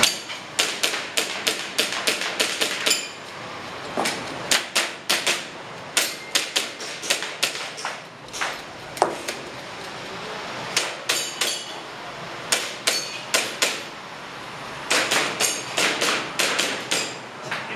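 Airsoft gun shots, sharp snapping cracks fired in quick strings of several shots each, with short pauses between strings, as a competitor shoots a practical shooting stage.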